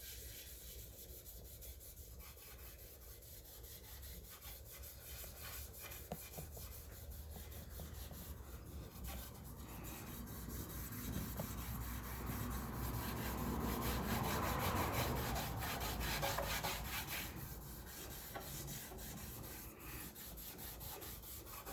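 An abrasive scouring pad wet with PB Blaster scrubbing the painted top of a Honda trash pump. It rubs in quick repeated strokes and grows louder around the middle.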